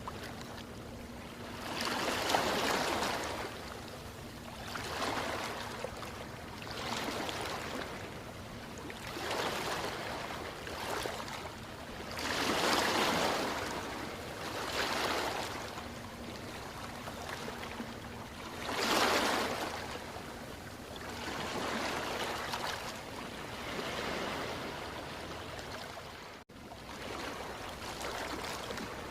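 Ocean waves washing in, the surf swelling and falling back every two to three seconds, with a brief drop-out about 26 seconds in.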